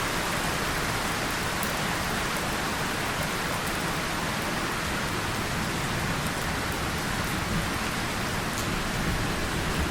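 Steady rain falling on a tin surface and on leaves, with occasional sharper drop ticks.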